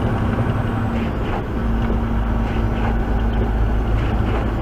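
Truck engine and tyre noise heard from inside the cab while driving at road speed, a steady low hum whose note shifts briefly about a second in.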